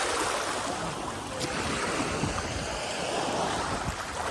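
Surf washing onto a beach, with gusts of wind rumbling on the microphone.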